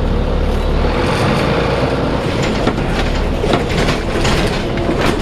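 Diesel engine of a DAF SB220 single-deck bus running rough, a steady low rumble broken by several sharp irregular bangs: the bad banging noise of a poorly running engine.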